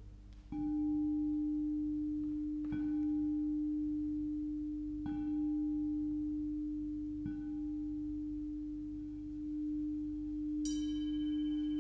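A singing bowl struck four times, about every two and a half seconds, its steady low hum ringing on between strikes. Near the end a brighter metal instrument is struck once and rings with several high tones over the hum.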